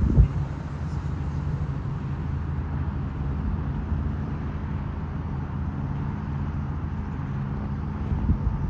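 Diamond DA42 Twin Star's two engines running with a steady, low, even drone. Two brief low thumps come just after the start and again near the end.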